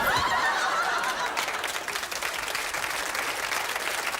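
Studio audience laughing and applauding, loudest at the start.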